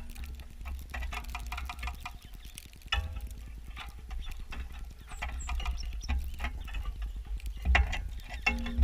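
Irregular taps, clicks and knocks of small birds landing on and pecking at a bird feeder, picked up through the GoPro mounted on it, over a heavy low rumble with thumps from the jostled camera housing.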